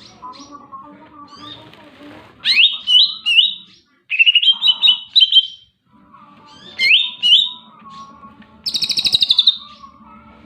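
Cucak ijo (green leafbird) singing loudly in separate phrases: rising whistled sweeps and quick runs of chirps, with a fast, higher rattling trill near the end.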